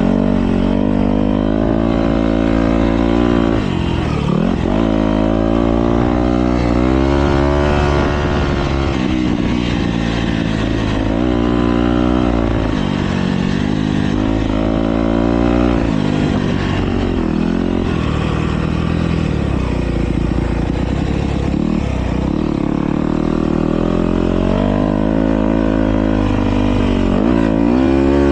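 Motocross bike engines racing, revving up and dropping off again and again as the riders work the throttle through the track.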